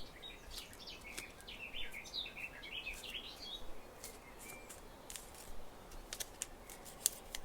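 Origami paper being folded and pressed by hand, with scattered crisp crackles and clicks as it is creased. Faint chirping runs underneath through the first half, bird-like to the tagger.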